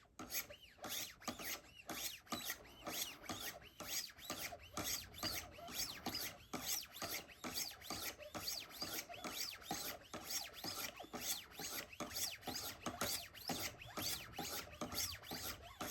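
600-grit sharpening stones of a Wicked Edge guided knife sharpener stroked up the knife's edge in a steady rhythm of about three rasping strokes a second, honing the bevel toward a finer edge.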